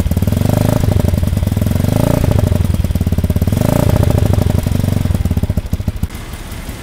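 Victory MRX Arizona 200's single-cylinder four-stroke engine running cold just after start-up, heard from behind at the exhaust. It is revved briefly about three times and drops to a quieter idle near the end.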